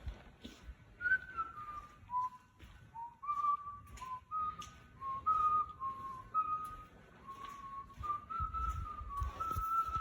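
A person whistling a wandering tune, one clear note after another at a fairly high pitch, with a few soft clicks and knocks underneath.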